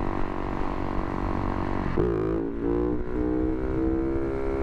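Husaberg FS570 supermoto's single-cylinder four-stroke engine running steadily, then about two seconds in pulling away with its pitch climbing slowly as it gathers speed. The bike is being ridden to check it still runs right after the sand, and it runs normally.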